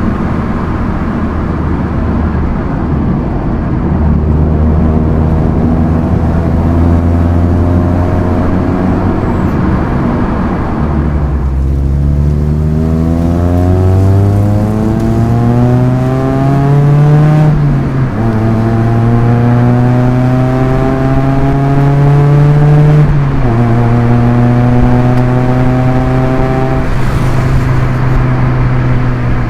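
Proton Inspira's 1.8-litre MIVEC four-cylinder engine, manual gearbox, running steadily at first, then pulling hard from a standstill about eleven seconds in. The engine note rises through first gear, dips at a quick upshift about seventeen seconds in, climbs again in second, and shifts once more a little after twenty-three seconds.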